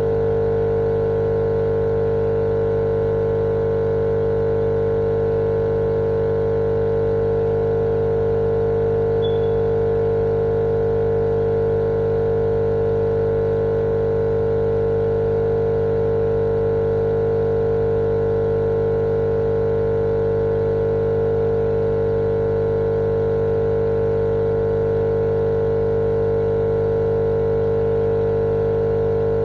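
Continuous white-noise track for lulling babies to sleep: a perfectly steady, unchanging machine-like hum with one strong mid-pitched tone over a lower drone and a layer of hiss.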